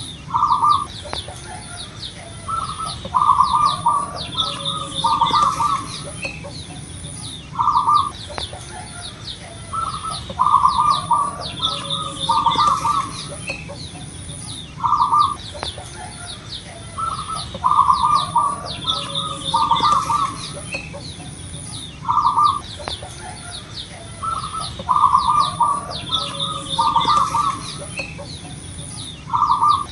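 Zebra dove (perkutut) cooing. Its phrase is a single coo, then another, then a quick run of coos, repeated about every seven seconds. Smaller birds chirp high and faint in the background.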